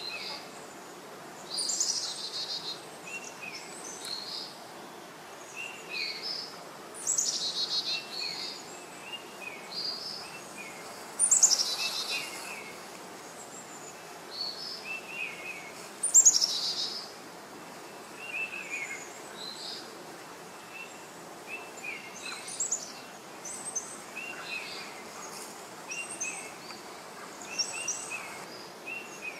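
Birds calling in the forest canopy: a loud, high call that sweeps downward in pitch comes back every few seconds, over quicker, lower chirps throughout, with a faint steady hiss underneath.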